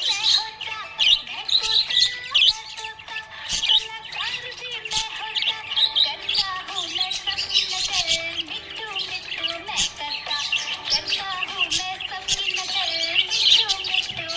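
Budgerigars chirping and warbling continuously, a dense, unbroken chatter of quick chirps and wavering notes.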